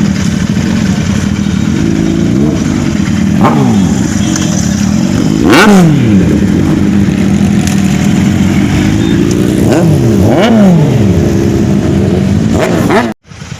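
Sport motorcycle engine running at a steady cruise, with its pitch sweeping up and back down several times as the revs rise and fall, the loudest about halfway through. The sound cuts out abruptly just before the end.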